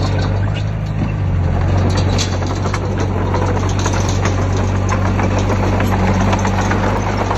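Diesel engine of heavy earthmoving machinery running steadily, with short knocks now and then.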